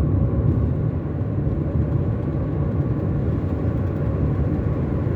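A car driving along a highway: a steady low rumble of engine and tyre noise that doesn't change.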